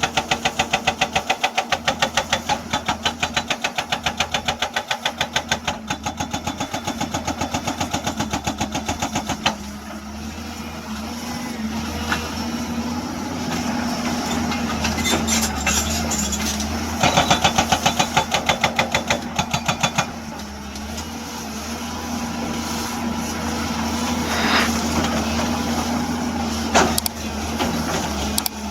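Hydraulic breaker hammer on a 2007 Hyundai Ex210 excavator pounding rock in a rapid, even run of blows for the first nine seconds or so, and again for a few seconds past the middle. Between bursts the excavator's diesel engine runs steadily.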